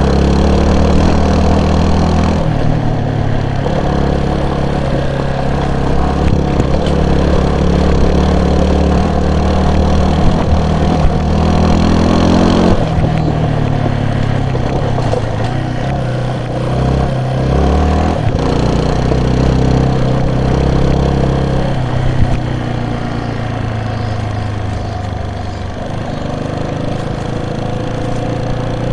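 Vehicle engine running under way, its pitch shifting in steps several times as engine speed changes.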